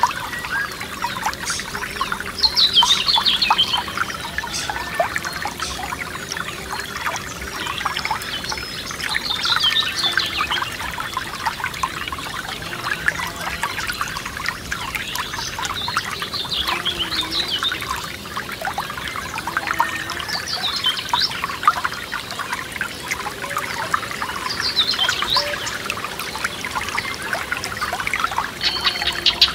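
Forest stream trickling and babbling steadily, with a songbird repeating a short, falling song phrase every few seconds.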